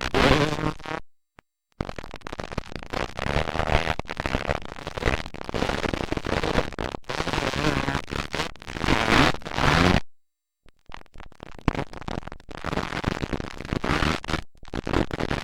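Motocross dirt bike engines revving hard and rising in pitch as bikes accelerate past, rough and distorted, with the recording dropping out abruptly twice.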